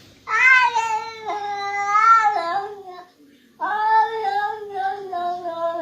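A pet animal giving two long, wavering howling calls, each nearly three seconds long, with a short pause between them.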